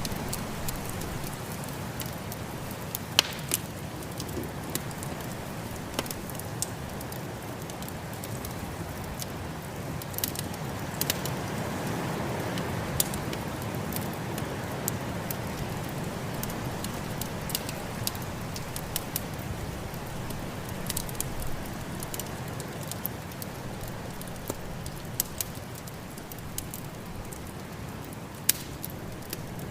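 Wood fire crackling, with irregular sharp pops and snaps over a steady rushing noise of snowstorm wind that swells briefly about twelve seconds in.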